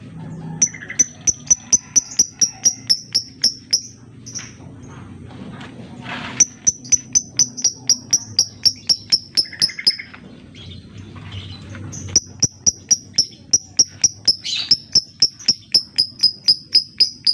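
Lovebird giving rapid runs of sharp, high chirps, about four or five a second, in three bursts with short pauses between: the ticking 'ngetik' call used as a lure to set other lovebirds calling.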